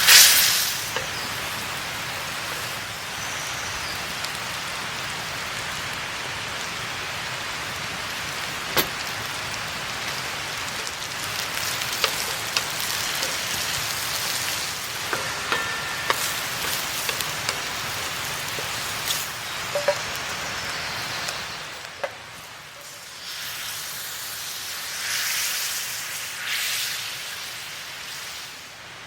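Food frying in a pan over a campfire: a steady sizzling hiss with scattered pops and crackles. About twenty-two seconds in it drops quieter, then swells twice more near the end.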